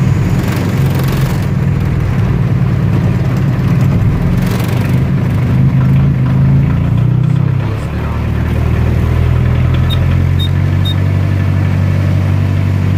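Skid loader's diesel engine cold-starting after its glow plugs were cycled: it catches right at the start and runs at a higher speed, then drops to a lower, steady idle about eight seconds in.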